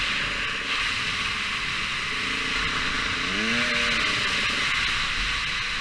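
Motocross bike engine on the move, its pitch rising and falling with the throttle and climbing sharply about three seconds in, under a steady loud hiss.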